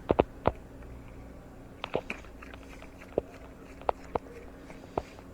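A series of short, sharp clicks at irregular intervals, about ten in five seconds, some in quick pairs or triples, over a faint steady hum.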